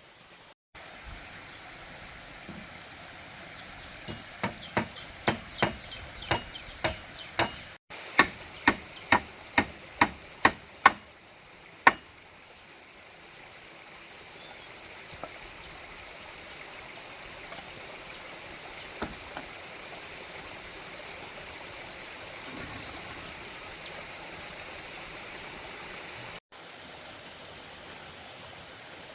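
Hammer strikes, about two a second, in two quick runs through the first half, then they stop. A steady high-pitched drone carries on behind them.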